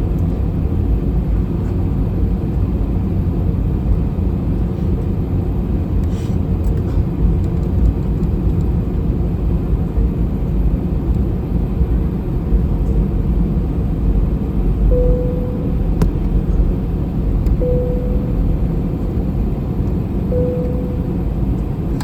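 Steady low rumble of cabin noise aboard an Airbus A321 on the ground with its engines running. From about two-thirds of the way in, a faint short beep repeats every few seconds.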